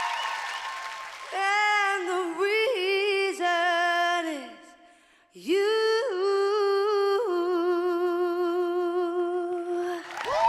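A singer's unaccompanied wordless vocal run closing a pop-rock ballad: a wavering phrase that fades out, then one long held note with vibrato that stops near the end.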